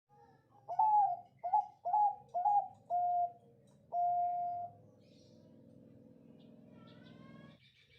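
Zebra dove (Bangkok perkutut) cooing: five short notes, each sliding up then down, followed by a longer held note about four seconds in. A faint steady hum follows.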